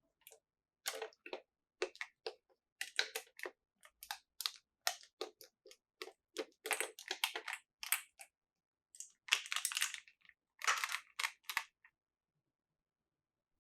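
Small plastic toy pieces and packaging being handled: a quick, uneven run of taps, clicks and crinkles, with longer crinkly stretches about nine to eleven seconds in, stopping a couple of seconds before the end.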